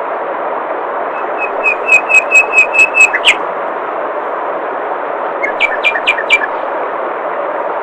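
Steady rush of flowing water with a songbird singing over it. The bird gives a run of about ten clear repeated notes, about four a second, ending in a quick downward sweep, then a few seconds later a shorter phrase of five notes.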